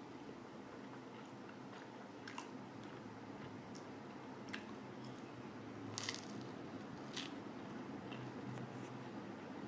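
Someone biting into and chewing pizza close to the microphone, with about five short crisp crunches spread through the chewing.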